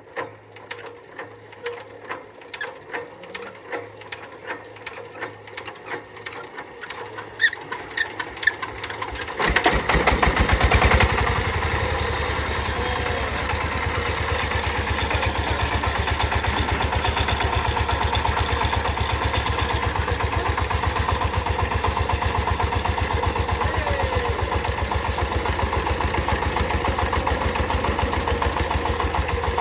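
Chinese Sifang power tiller's single-cylinder diesel engine being turned over, evenly spaced pulses speeding up, then catching about nine seconds in with a loud burst and settling into steady running.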